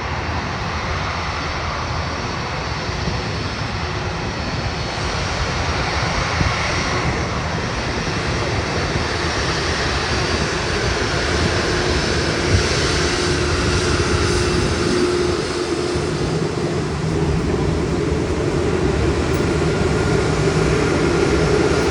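Airbus A330neo's Rolls-Royce Trent 7000 turbofans running at taxi power: a steady jet rumble and whine that grows slightly louder toward the end.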